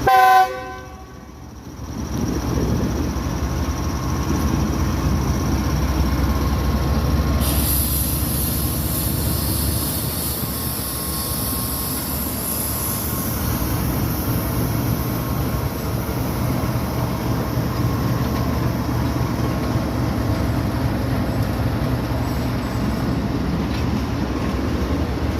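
A Pakistan Railways locomotive horn sounds briefly at the very start, then the train runs with a steady low rumble for the rest. A high hiss joins about a third of the way in and fades somewhat later.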